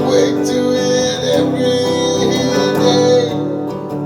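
Music: strummed acoustic guitar in a country-style song, playing between sung lines.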